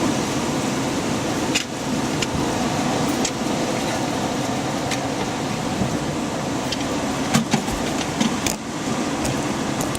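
Steady rushing of strong storm wind, with scattered sharp ticks through it.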